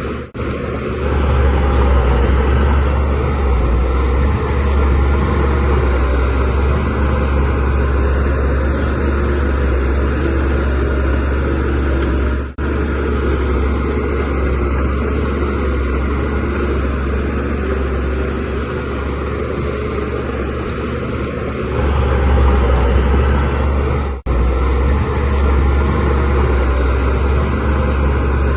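Shantui DH17C3Pro bulldozer's diesel engine running steadily under load with a deep drone, growing louder for a few seconds at a time. The sound cuts out abruptly for an instant twice, about halfway through and near the end.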